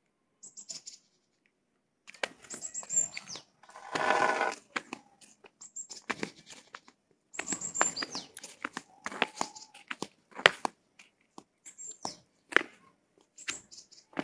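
Forest birds chirping and calling: many short, high, falling chirps, a louder harsh call about four seconds in, and scattered sharp clicks.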